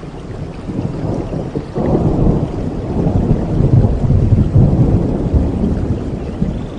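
Thunder rumbling over steady rain: the rumble swells sharply about two seconds in, rolls on loudest through the middle and eases near the end.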